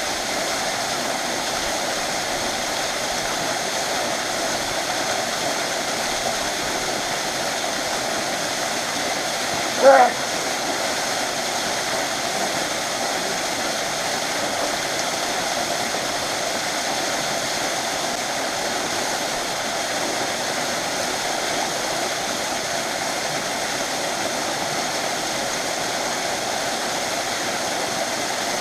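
A waterfall rushing steadily. About ten seconds in there is one brief pitched sound.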